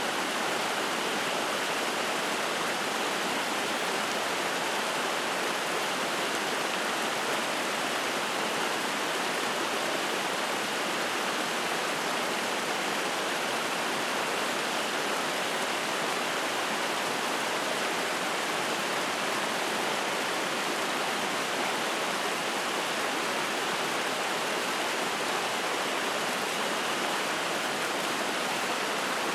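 Mountain stream rushing and splashing over rocks, a steady, even water noise.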